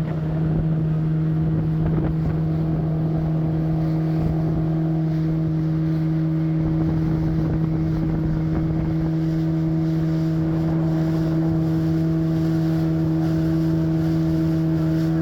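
Boat motor running at a steady speed, an even, unchanging hum, with wind buffeting the microphone.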